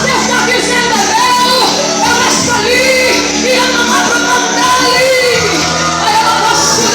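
Live gospel music: a woman singing with sustained, bending notes over a band accompaniment.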